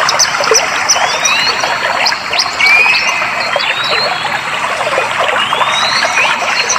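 Clear stream water flowing and trickling in a steady rush, with small birds calling over it in short, rising whistled notes, several of them.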